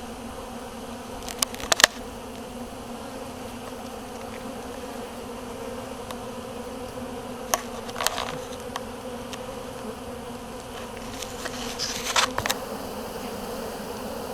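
Honey bee swarm buzzing in a steady hum while the bees march into a hive box and settle in, with a few brief clicks about two, eight and twelve seconds in.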